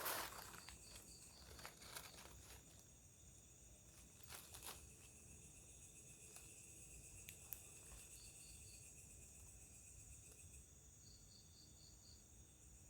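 Faint night insect chorus: crickets and other insects trilling steadily in high, even tones. Short runs of quick chirps, about five a second, break in three times. A few faint ticks or rustles, like steps on leaf litter, come around the middle.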